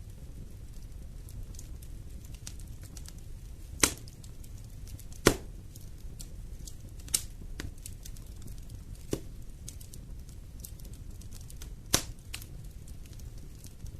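Fire burning in a fireplace: a steady low rumble of flames with faint crackling and five sharp pops, the loudest about five seconds in.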